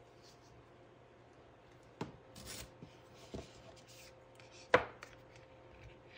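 Washi tape and paper being handled on a desk: a few scattered light taps and a short rub, with one sharp tap a little before the end.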